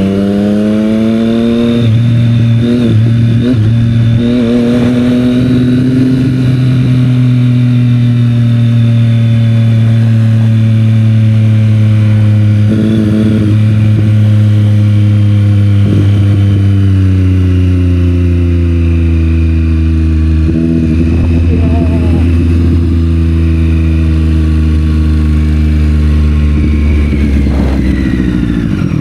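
Triumph Street Triple 765 R's inline three-cylinder engine through a Yoshimura exhaust while riding. The revs climb in gear for the first few seconds, then ease off slowly over a long stretch, and drop steeply near the end as the bike slows.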